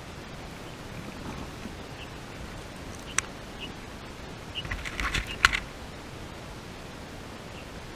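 Steady hiss with a single sharp click about three seconds in and a short cluster of clicks and rustling around five seconds in.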